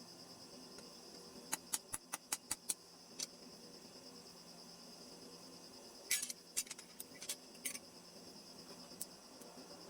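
Light, sharp clicks and taps of small hard objects: a quick run of about six around two seconds in and another cluster from about six to eight seconds in, over a steady high-pitched hum.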